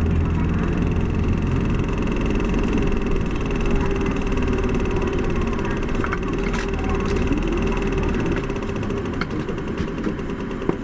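Isuzu Erga city bus's diesel engine running steadily; its low drone drops away about eight seconds in, with a few light clicks.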